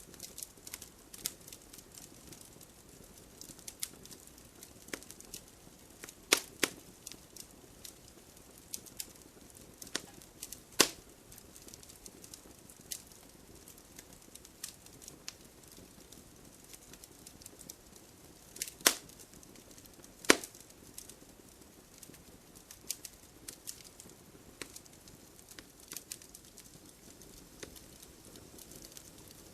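Wood fire crackling: burning logs give irregular sharp pops and snaps over a soft hiss, with a few louder snaps scattered through.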